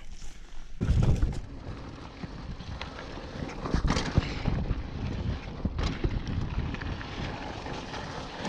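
Mountain bike riding over a rough dirt trail: a steady rumble and rattle of tyres and frame with repeated knocks, and wind noise on the microphone. It gets louder about a second in.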